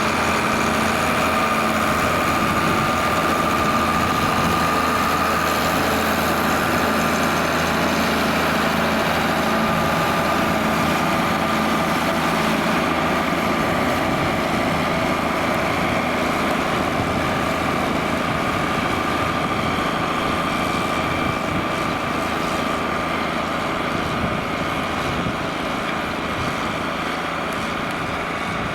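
John Deere 4850 tractor's six-cylinder turbo diesel engine running steadily under ploughing load, with a steady high whine over it, growing slightly fainter near the end.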